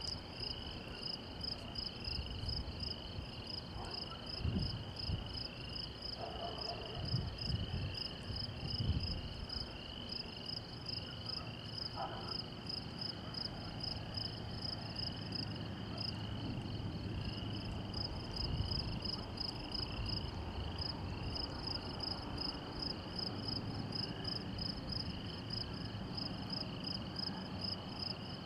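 A chorus of insects, crickets or katydids, chirping in a steady, even pulse of high-pitched calls. Low rumbles come and go underneath, mostly in the first half.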